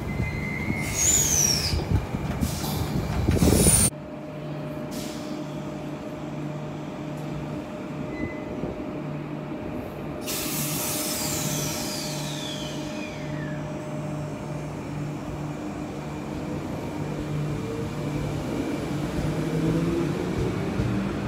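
Transperth A-series electric multiple-unit train at a platform. It runs in with brake noise and high falling squeals, and the sound cuts off abruptly about four seconds in. The stopped train then hums steadily, with a burst of air hiss and a long falling whistle about ten seconds in, and a rising motor whine near the end as it pulls away.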